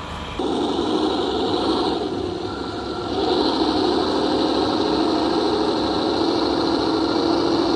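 A radio-controlled construction model running: a steady engine-like drone with a higher whine above it. It starts abruptly just after the start and eases off briefly about two to three seconds in.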